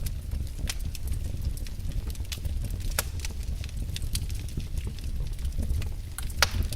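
Wood fire burning in a fireplace: a steady low rumble of the flames with irregular crackles and pops, the loudest pops about three seconds in and near the end.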